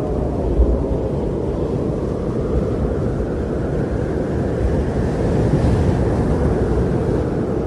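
Strong blizzard wind: a steady low roar that swells and eases slowly, growing a little stronger past the middle.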